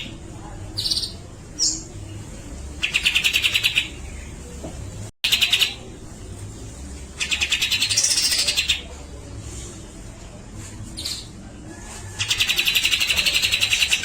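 Grey-cheeked bulbul (cucak jenggot) giving rapid rattling chatter calls, its 'besetan', four times, each lasting about a second, with short whistled notes in between.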